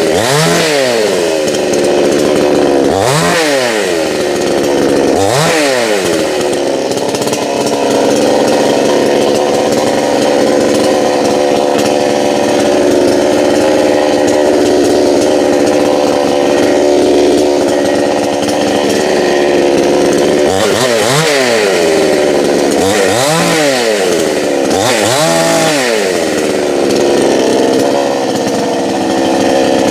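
Two-stroke chainsaw engine running loud, revved up and back down several times in quick blips, then held at a steady high speed for about twelve seconds in the middle before more blips and another steady stretch near the end.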